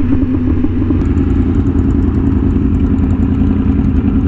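Yamaha R1M's crossplane inline-four engine, fitted with an SC Project exhaust, running at a steady, even pitch under way.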